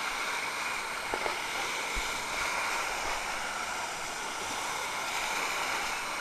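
Steady rush of water at a water park, an even wash of noise with no breaks.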